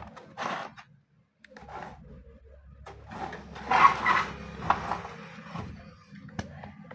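Scraping and rubbing of tools against a circuit board while a voltage regulator is worked loose, loudest a little past halfway, with a sharp tick near the end.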